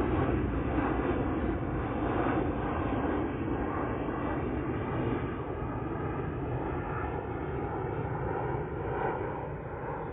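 Steady low rushing noise outdoors, easing off slightly toward the end.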